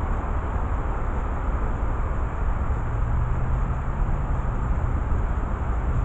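Steady low rumble with a low hum that comes in about halfway through.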